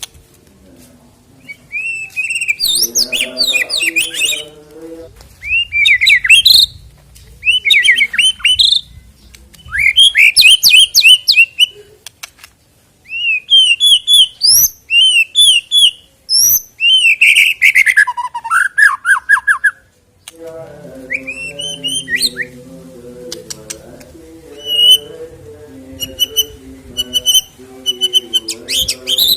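White-rumped shama (murai batu) singing: loud bursts of varied whistled phrases and rapid trills, broken by short pauses. One phrase about two-thirds of the way in falls steadily in pitch, and near the end a short note is repeated quickly and evenly.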